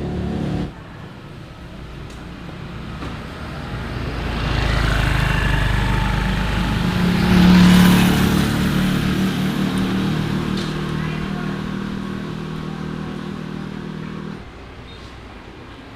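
A motor vehicle's engine passing by, growing louder to a peak about halfway through, then fading away and dropping off near the end.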